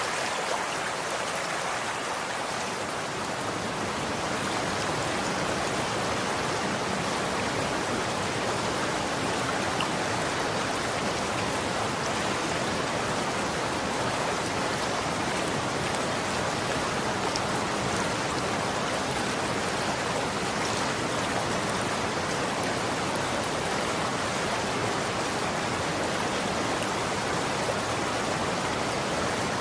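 Running water flowing steadily, an even rushing with no breaks or changes in level.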